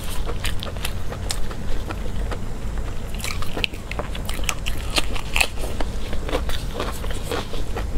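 Close-miked chewing and biting: wet mouth clicks and crackles while eating braised pig offal, with a run of crisper, crunchier bites a few seconds in.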